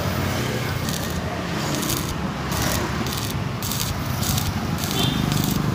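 Stick-welding arc crackling and sizzling steadily as a bead is run, with uneven hissing surges every half second or so.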